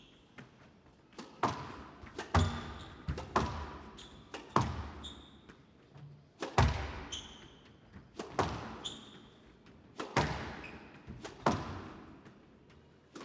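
Squash rally: the ball cracking off rackets and the walls with echoing impacts about once or twice a second, mixed with short high squeaks of players' shoes on the court floor.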